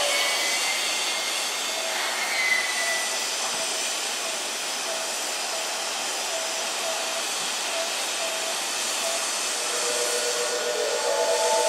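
A Keisei electric commuter train drawing to a stop at the platform and standing there, a steady hiss of its running equipment with faint short tones repeating through it and a pair of steady tones coming in near the end.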